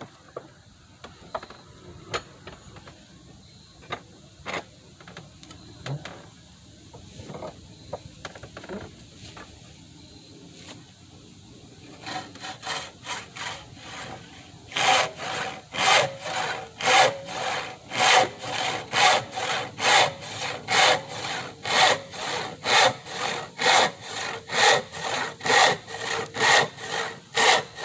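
Handsaw cutting through a wooden board. The first half is quiet apart from a few light knocks; soft saw strokes begin about halfway in and grow into full, even strokes, about two a second.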